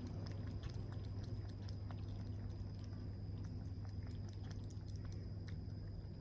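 A kitten chewing: small irregular clicks over a steady low hum.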